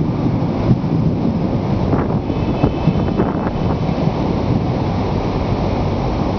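Steady low rushing noise of stormy weather, with wind buffeting the microphone.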